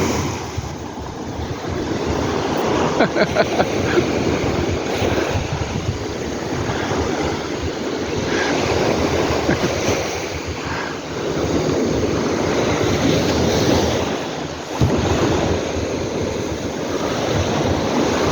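Sea waves breaking and washing up the beach in repeated surges that swell and ease every few seconds, with wind buffeting the microphone.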